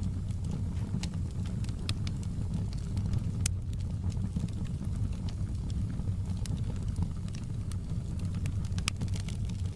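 Wood campfire burning: a steady low rumble with scattered sharp crackles and pops.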